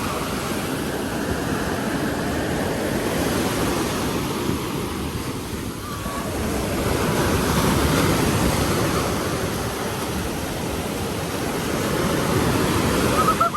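Ocean surf breaking and washing up the beach in a steady roar that swells and eases, with wind buffeting the microphone.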